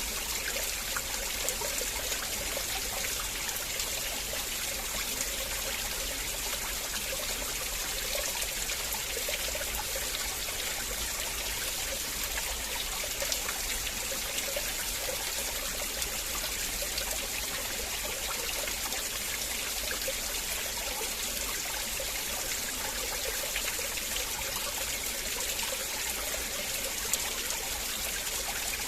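River water flowing and trickling: a steady, even rush with small splashes through it.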